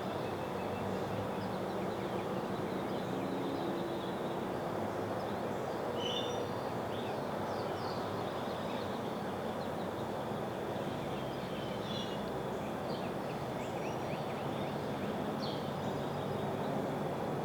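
Scattered short, high bird chirps and whistles over a steady outdoor background hum.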